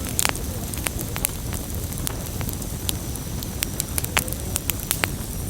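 Wood campfire burning: a steady low rush of flame with frequent sharp, irregular crackles and pops of the burning wood.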